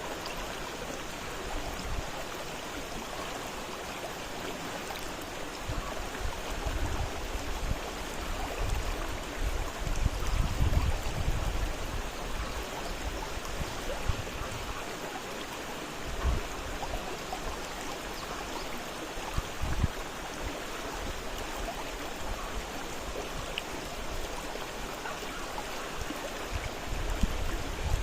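Fast-flowing river rushing steadily, with a few brief low rumbles partway through.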